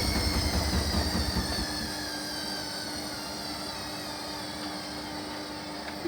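Hoover Link HLW585DC washer dryer winding down from its final spin: the drum motor's whine falls slowly in pitch while the low drum rumble dies away about one and a half seconds in, leaving a steady hum. A small click near the end.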